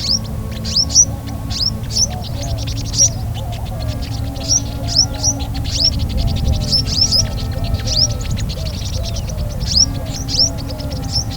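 Small birds chirping: rapid, sharp, high notes, several a second, over a steady low hum.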